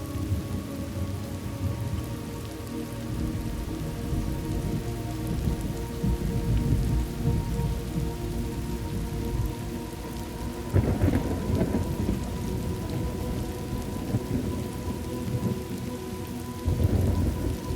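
Thunderstorm ambience: steady rain with low rolling thunder, and two louder thunderclaps, one about eleven seconds in and one near the end.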